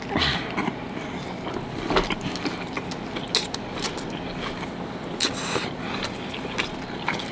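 Close-miked eating sounds: biting into and chewing red hot sausage dogs in soft buns, with many short wet mouth clicks and smacks scattered throughout.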